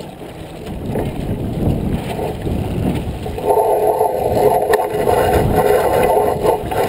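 Wind and water noise aboard a J24 sailboat under way, with scattered knocks. From about halfway in, a steady whirring joins it and keeps on to near the end.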